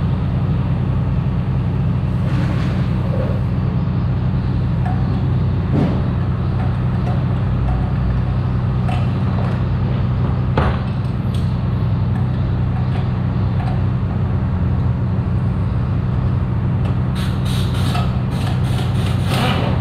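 Yamaha Tracer 900 GT's three-cylinder engine idling steadily through a newly fitted Yoshimura R-77S exhaust, with a few sharp knocks and a short clatter near the end.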